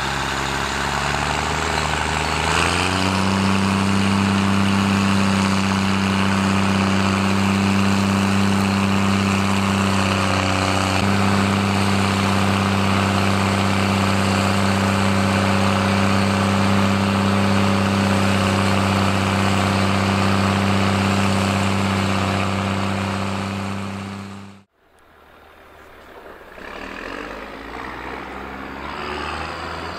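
New Holland T6030 tractor engine with a straight steel exhaust pipe, rising in revs over the first few seconds and then running at steady high revs. It cuts off abruptly about 24 seconds in, and a quieter engine sound builds up near the end.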